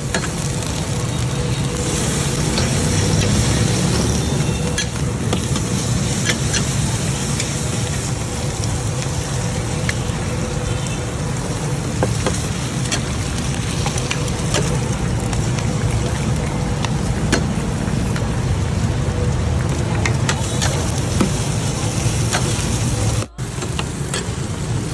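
Bột chiên (rice-flour cake) sizzling in oil on a hot flat pan, with frequent sharp clicks and scrapes of a metal spatula on the pan, over a steady hum of street traffic.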